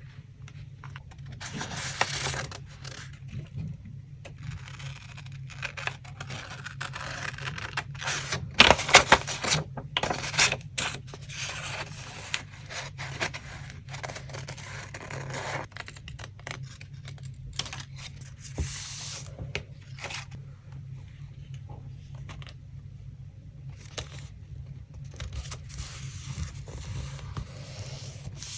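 Collage paper being handled, with scraping and tearing sounds that come and go, loudest about nine seconds in.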